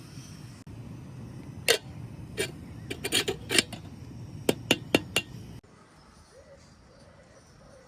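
Camp cookware and utensils clinking: about a dozen sharp clinks, some in quick clusters, over a low rumbling background. A little over halfway through the background cuts off, leaving faint bird chirps.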